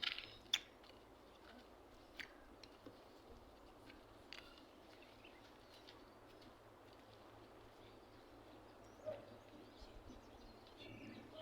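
Near silence with faint outdoor hiss, broken by a few short, faint clicks and scrapes: a cluster at the start, single ones about two and four seconds in, and a few small ones near the end.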